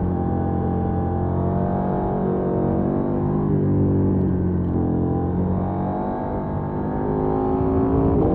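2020 KTM 790 Duke's 799 cc parallel-twin engine pulling in third gear, recorded onboard the bike. Its note dips slightly a couple of times through the bends and climbs again near the end as the bike accelerates.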